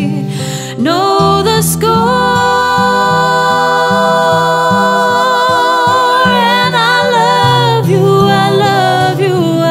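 Music: a singer holds a long wordless note over instrumental backing with a changing low chord line, the voice wavering near the end.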